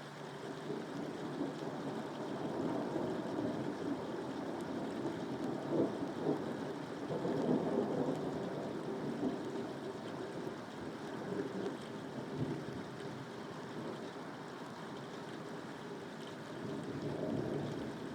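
Steady rain falling, swelling louder twice, once around the middle and again near the end.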